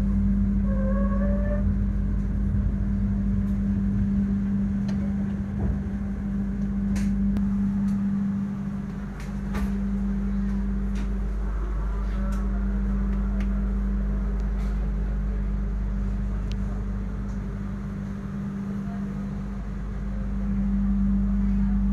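Steady low hum and rumble heard inside a passenger train carriage, with a few sharp clicks in the middle.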